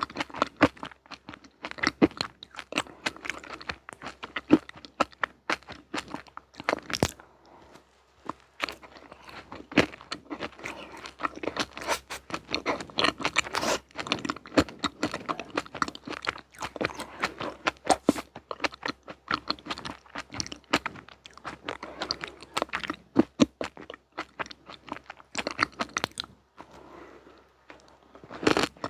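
Close-miked eating of crunchy sweets: many sharp crunches and bites mixed with chewing, with a couple of brief pauses.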